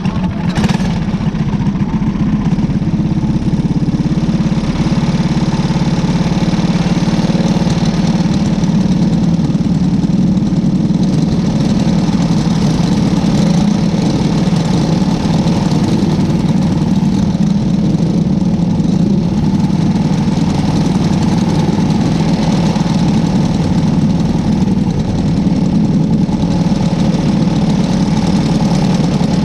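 Small single-seat race car engine running steadily, heard up close from the car itself with an even, droning note and no big revs.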